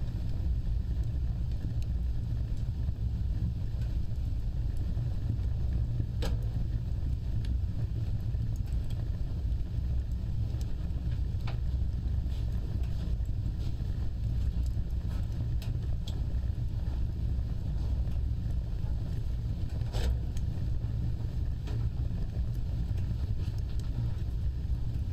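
Wood fire burning with a steady low rumble and scattered crackles and pops, the sharpest about 6 and 20 seconds in.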